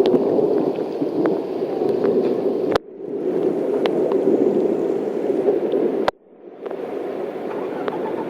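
Heavy rain pouring down and floodwater running and gurgling, with scattered sharp drop impacts. The sound breaks off abruptly twice, about three and six seconds in, then comes back.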